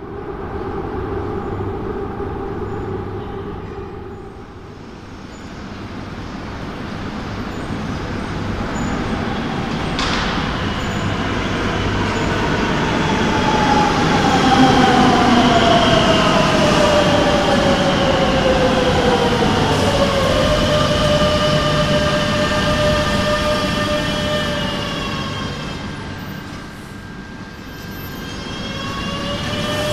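Madrid Metro Serie 9000 electric train arriving at the platform. Its traction-motor whine falls steadily in pitch as it brakes, until it stops about two-thirds of the way in. It then stands with steady humming tones, and a rising whine begins near the end as it pulls away.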